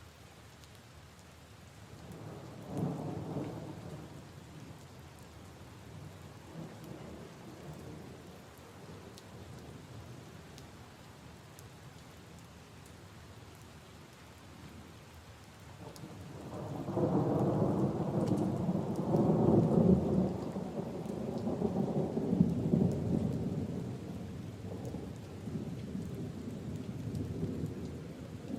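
Steady rain falling on leaves and puddles, with rolling thunder: a short rumble a couple of seconds in, then a much louder, longer rumble starting just past halfway and fading slowly.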